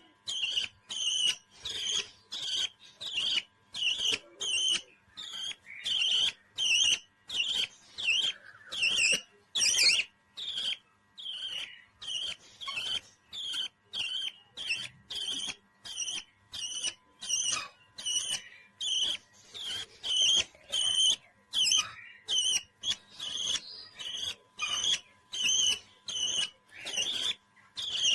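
A parrot calling in short, high chirps and whistles, about two a second, in a steady unbroken run.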